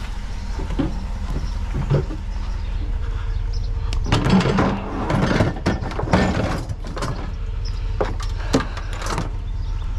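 A vehicle engine running steadily with a low rumble. From about four seconds in, a run of knocks and clatter comes over it, as objects are handled and loaded.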